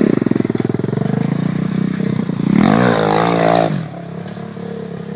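Small off-road vehicle engine running with a pulsing beat. It revs up about two and a half seconds in and holds high for about a second, then eases back to a quieter, lower speed.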